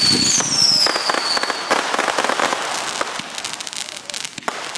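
Consumer fireworks going off: a whistling firework's falling whistle in the first second and a half over dense crackling and popping, which thins out, then a sharp bang near the end.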